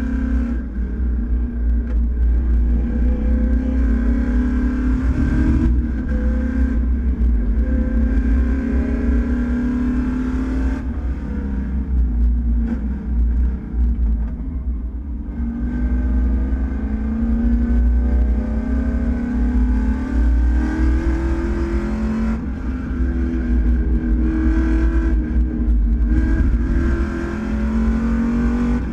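Race car engine running hard, its pitch climbing and dropping several times as it accelerates, shifts and backs off, over a heavy low rumble.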